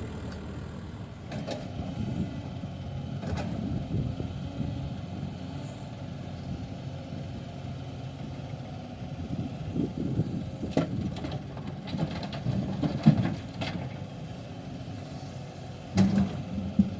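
Heavy diesel engine running steadily at low revs, with a few sharp knocks scattered through, the loudest about three-quarters of the way in.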